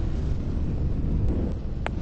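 Low rumble of car engines mixed with wind buffeting the microphone, with one brief high squeak near the end.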